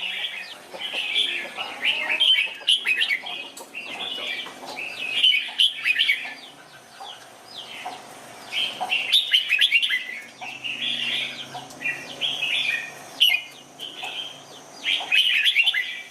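Red-whiskered bulbul singing: bursts of quick, warbled whistling phrases, one after another with short pauses, easing into a lull about seven seconds in before starting up again.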